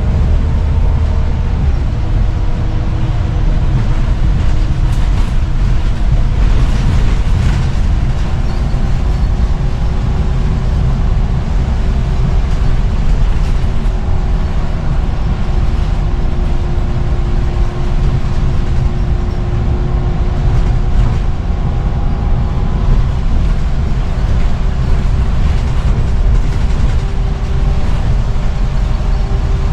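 Scania CN94UB (Omnicity) bus running along at a steady speed: a dense low engine and road rumble with a steady whine over it that dips slightly about two seconds in and then holds.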